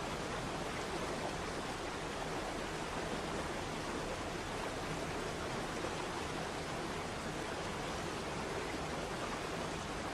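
Waterfall: falling water rushing in a steady, even roar of noise with no breaks.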